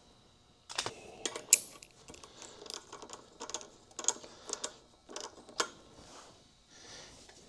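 Irregular metallic clicks and clinks of hand tools and hardware being worked on a shock absorber's top mounting, starting about a second in with several sharper taps.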